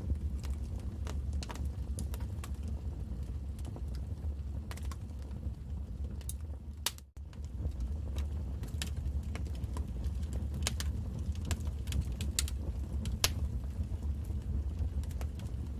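Wood fire burning in a fireplace: a steady low rumble of the flames with irregular sharp crackles and pops from the burning logs. The sound cuts out for a moment about halfway through, then resumes.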